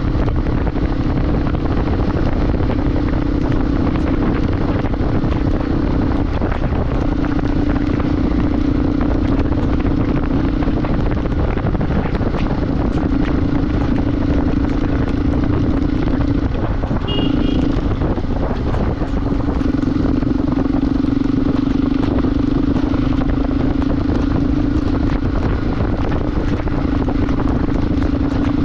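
Motorcycle engine running steadily while riding, over constant wind and road noise; the engine note eases off briefly several times, as when rolling off the throttle or shifting gears.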